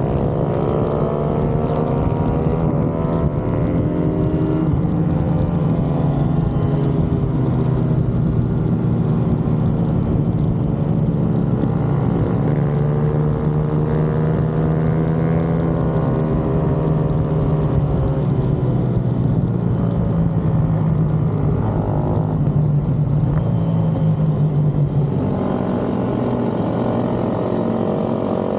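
Pit bike's single-cylinder four-stroke engine running hard, its pitch rising and falling over and over as the throttle opens and shuts and it shifts through the gears. A hiss joins in about three-quarters of the way through.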